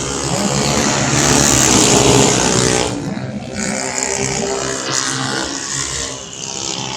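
The engines of 125cc automatic racing scooters running at high revs as they pass, loudest from about one to three seconds in, then carrying on a little lower.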